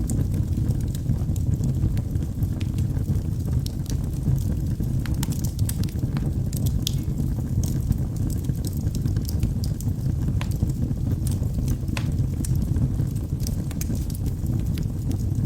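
Wood fire burning in a fireplace: logs crackling, with many sharp pops scattered irregularly over a steady low rumble of the flames.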